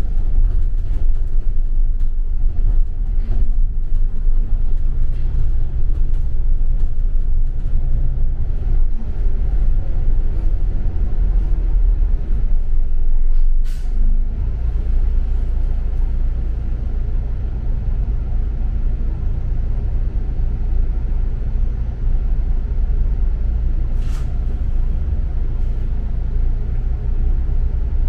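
Double-decker bus running, a steady low engine and road rumble heard on board. Two brief sharp sounds cut through, about fourteen seconds in and again near the end.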